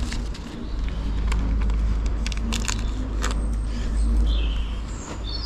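Steady low rumble with a few light clicks, typical of small metal engine parts such as apex seal springs being picked up and handled.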